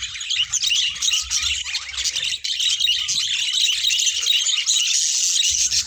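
A flock of budgerigars chattering, many short high chirps and warbles overlapping without pause.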